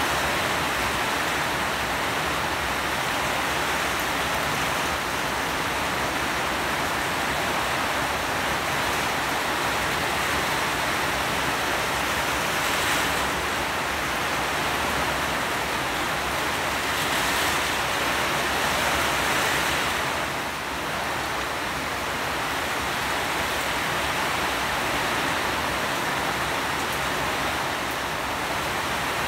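Rain falling steadily: a dense, even hiss that swells slightly a couple of times around the middle.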